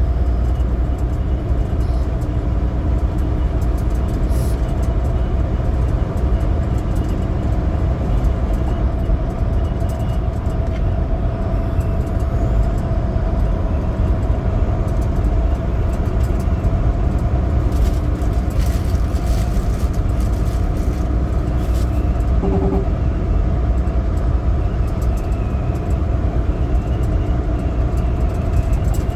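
Semi truck's diesel engine running steadily while driving, with a low drone and road noise and no change in pace.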